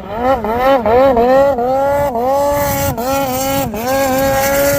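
Snowmobile engine revving hard, its pitch climbing and dropping back again and again with quick throttle blips, then holding longer pulls at high revs through the second half.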